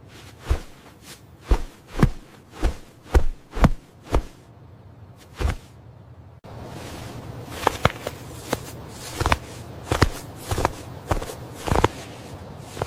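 Footsteps: a series of separate thuds, roughly two a second, over a low steady background that becomes louder about six and a half seconds in.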